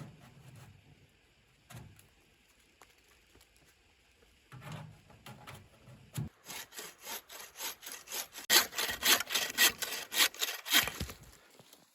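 Hand saw cutting wood: a few scattered knocks, then quick back-and-forth saw strokes starting about halfway through, getting louder and stopping near the end.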